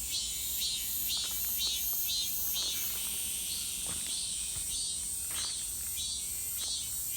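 Cicadas singing: a steady high shrill overlaid by a pulsing call that repeats about twice a second, with a few faint rustles now and then.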